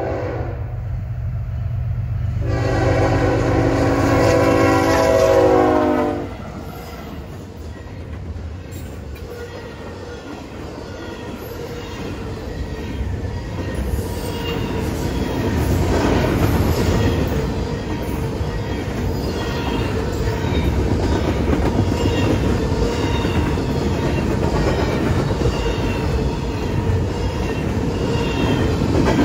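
A freight train's lead GE ES44AC diesel locomotive passes with its engine rumbling and sounds one long horn blast, which drops in pitch as it goes by about six seconds in. Double-stack intermodal container cars then roll through with clickety-clack wheel noise that grows louder and then holds steady.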